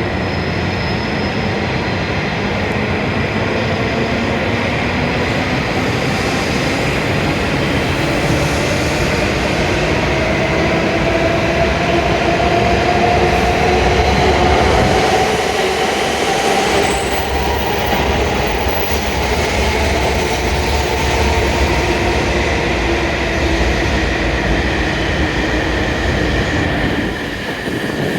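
E7 series Shinkansen train pulling in alongside the platform and slowing to a stop: a steady rumble of wheels and running gear under several whining tones that glide upward in the first half and fall in pitch in the second half as it slows.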